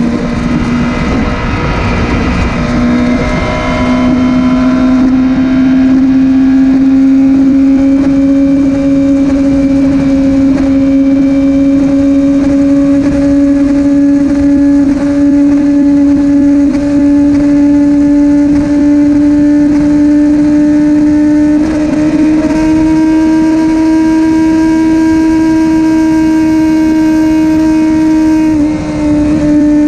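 Motorcycle engine running steadily under way, its pitch creeping slowly upward as the revs build. Its note breaks briefly twice, the second time near the end with a short drop in level.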